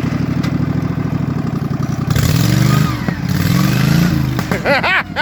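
Racing riding lawnmower's engine idling, then revved up hard twice as the mower tries to pull a log on a chain. Near the end there are several short, high, rising-and-falling squeals.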